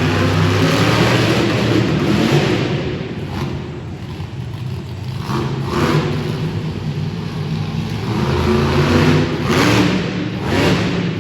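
Monster truck engine revving hard in repeated surges, the pitch and loudness rising and falling, with several sharp bursts of throttle in the second half.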